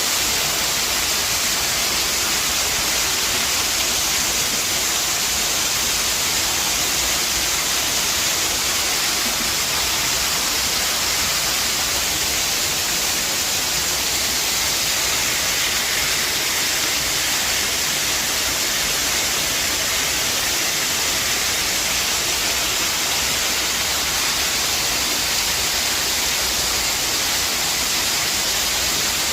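Steady rushing of water, an even hiss heaviest in the upper range with no breaks or changes in level.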